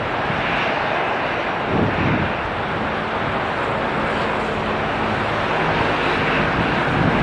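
Airbus A320 jet engines running, with faint steady tones under a dense hiss of heavy rain and wind.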